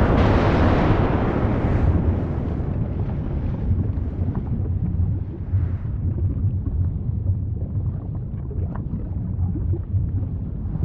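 Volcanic eruption rumbling: a deep roar, loudest in the first two seconds, then easing to a lower rumble with a few faint cracks.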